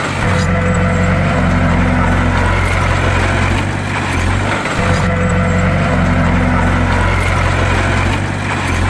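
Bulldozer's diesel engine running steadily under load, with a low drone and a brief dip in the sound that recurs about every four and a half seconds.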